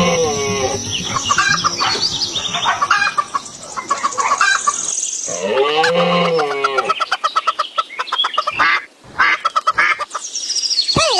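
Farmyard chickens: a rooster crows twice, once at the start and again about six seconds in, each crow a single arched call about a second long. Between and after the crows, quick runs of clucking.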